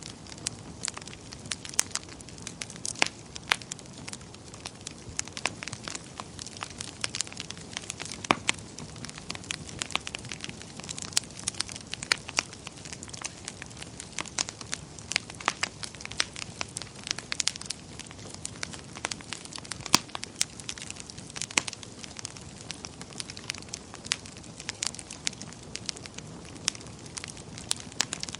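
Wood fire burning in a fireplace, with frequent irregular sharp crackles and pops over a steady low rush of flame.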